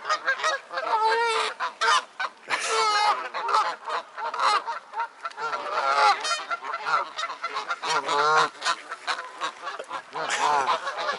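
Geese honking, many loud calls overlapping one after another as the birds squabble among themselves.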